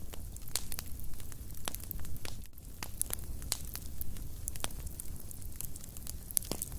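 Wood fire burning in a fireplace, crackling with frequent irregular sharp pops and snaps over a steady low rumble of the flames.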